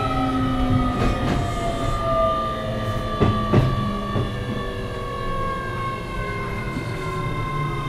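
Interior running sound of a Keio 7000-series electric commuter car: a rumbling ride with a whine in several tones that slowly falls in pitch as the train slows. A couple of sharp wheel clacks over rail joints come about three and a half seconds in.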